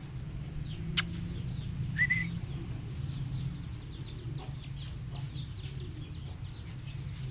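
Birds calling in the background: scattered small chirps and one short wavering call about two seconds in. A sharp click comes about a second in, over a steady low hum.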